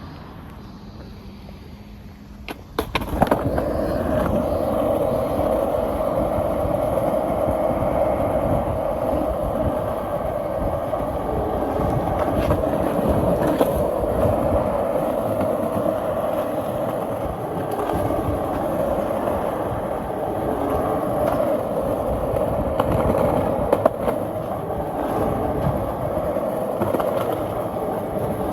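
Skateboard wheels rolling steadily over pavement, starting with a few clacks about three seconds in, with occasional small ticks from cracks and seams as the board cruises along.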